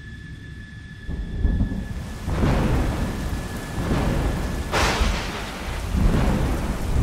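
Thunderstorm: steady heavy rain with several rolling thunder crashes, the sharpest crack about five seconds in. For about the first second before the storm comes in, only a quieter steady drone with a thin high tone is heard.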